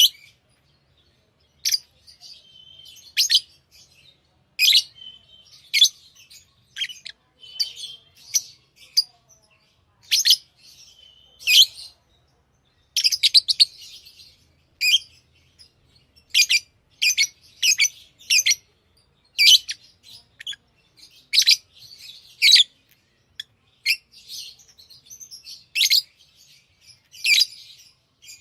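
Pet lovebirds chirping: short, sharp, high-pitched chirps repeated every second or so, sometimes several in quick succession.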